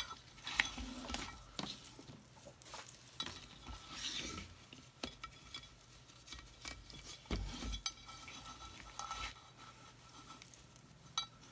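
Handling noises as lengths of rope are arranged around a clay saucer: scattered soft clicks, light taps and rustles, with a dull thump about seven and a half seconds in.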